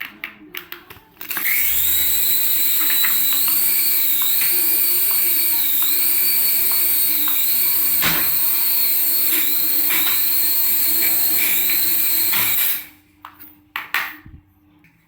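Small electric motor of a toy RC aircraft running at high speed with a steady high whine, its pitch briefly dipping and coming back several times. A few clicks come before it starts about a second in, and it cuts off near the end.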